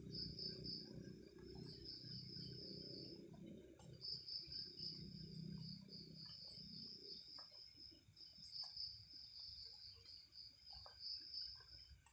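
Night insects trilling steadily at a high pitch, in long stretches broken by short pauses. A low rumble underneath fades out about two-thirds of the way through.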